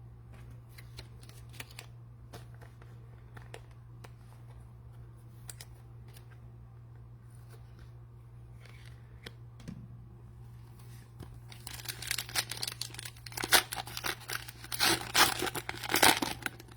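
Light clicks of trading cards being handled, then, from a little over halfway, a plastic cello-wrapped trading card pack being torn open with loud crinkling of the wrapper. A steady low hum runs underneath.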